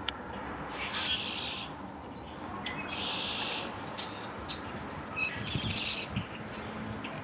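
A bird calling outdoors, three short high-pitched calls about two seconds apart, over a steady low background hum.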